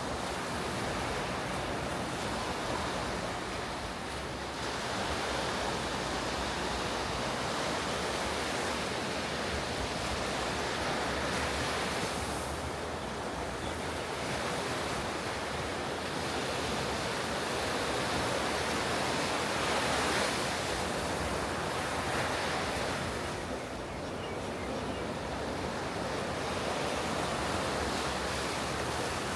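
Ocean surf breaking on a beach: a steady wash of wave noise that swells and eases every several seconds, with some wind on the microphone.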